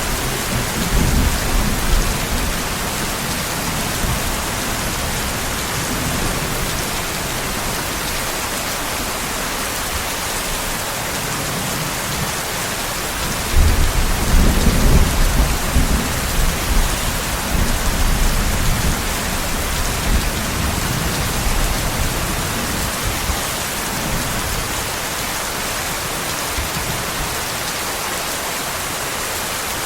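Steady heavy rain hissing, with rolls of thunder rumbling low underneath: a brief one about a second in and a stronger, longer roll starting about halfway through that fades over several seconds.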